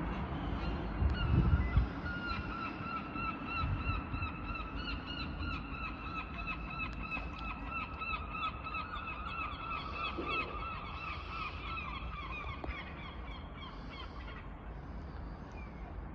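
A bird calling in a long, fast run of short repeated notes, several a second, fading out about two seconds before the end. A low rumble on the microphone about a second in.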